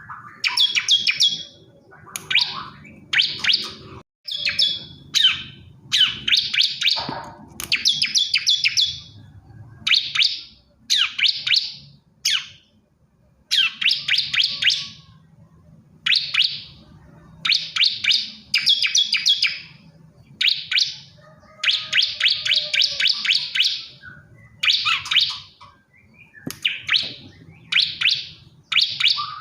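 Male bar-winged prinia (ciblek kristal) singing: short phrases of rapid high notes repeated over and over with brief gaps between them, the song of a male calling for a female.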